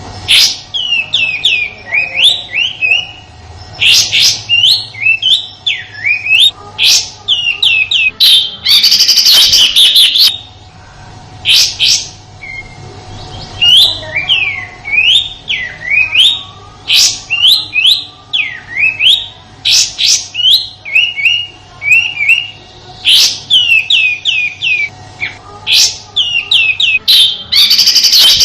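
Kapas tembak (olive-winged bulbul) giving its harsh "tembakan" song: quick runs of sharp, sweeping chirps, broken by loud rasping bursts about nine seconds in and again near the end, with a short pause after the first burst.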